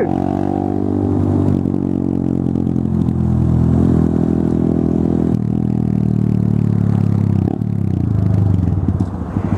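Honda MSX125 (Grom) single-cylinder engine running through a freshly fitted Zoom aftermarket exhaust, a steady note that shifts slightly in pitch a few times.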